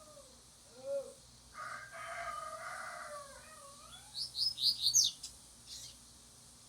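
Double-collared seedeater (coleiro) singing a short phrase of quick, high notes that each fall in pitch, about four seconds in. Before it, a rooster crows once, lower and longer.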